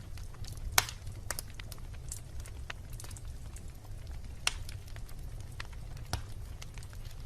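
Wood bonfire burning, with a steady low rumble of flames and scattered sharp crackles and pops, the loudest pop just under a second in.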